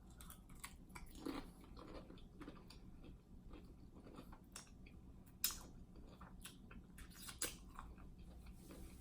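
A person chewing and biting seafood buffalo dip with shrimp pieces close to the microphone: faint smacking and clicking mouth sounds, with two sharper crunches about five and a half and seven and a half seconds in.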